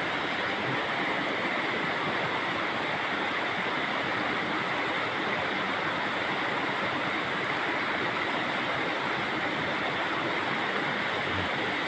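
Steady rush of flowing water from a spring-fed stream, an even unbroken sound.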